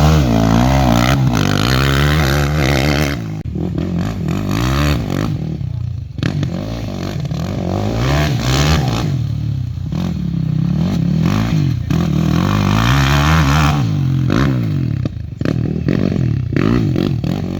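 Quad bike engine being ridden hard on a motocross track, revving up and down over and over as the throttle is opened and closed, with a couple of brief drops in pitch and loudness when the throttle is closed.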